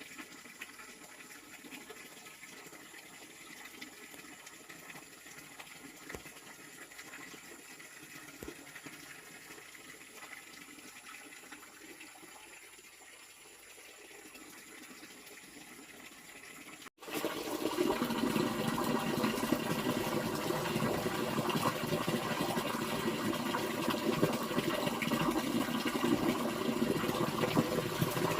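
Water running and filling a container. It turns much louder and fuller after an abrupt cut about 17 seconds in.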